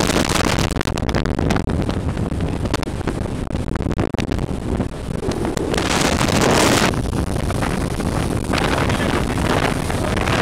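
Wind buffeting the microphone aboard a moving motorboat, over the steady low rumble of the boat's engine; heavier gusts come about six seconds in and again near the end.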